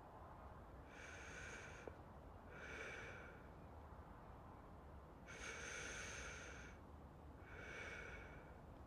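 Slow, close-miked breathing: two pairs of soft breaths in and out, each about a second long, over a faint steady hiss.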